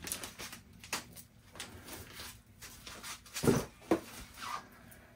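Hands working double-sided sticky tape onto a glued plastic trim part: scattered light clicks and rustles, with two louder handling sounds about three and a half seconds in.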